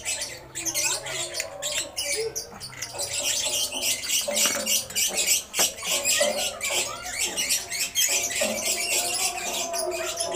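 Small birds chirping and squawking in a continuous, busy chatter.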